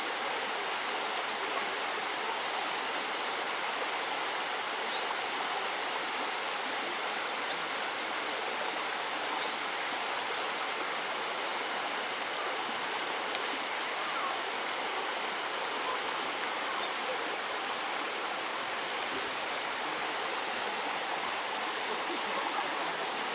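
Steady rushing of flowing water, like a stream, unchanging throughout.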